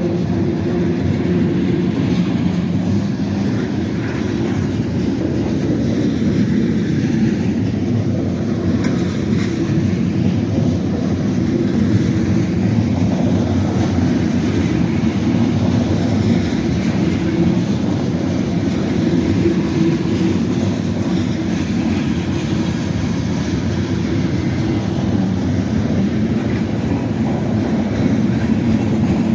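CSX freight train rolling past, its cars' wheels running steadily on the rails with a constant low rumble.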